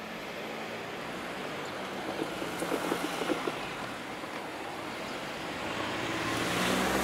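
Distant, steady rumble of a container freight train hauled by an EF210 electric locomotive as it runs away, blending into a wind-like wash. Another vehicle grows louder near the end.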